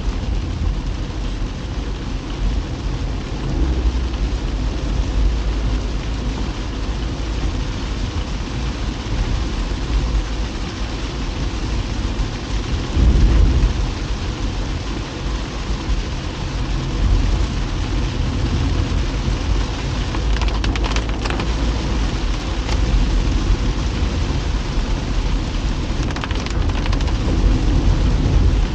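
Rain on a moving car and its tyres on the wet road: a steady hiss over a heavy low rumble, swelling briefly louder about halfway through.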